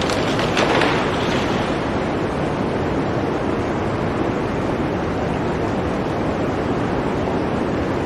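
Blizzard wind blowing steadily, with a stronger gust in the first second.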